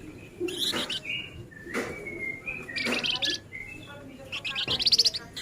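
Male flamboyan songbird singing in short bursts of rapid, dense, high chattering trills, the 'nyerecet rapat' song of a bird in full voice. The loudest, fastest run of notes comes near the end.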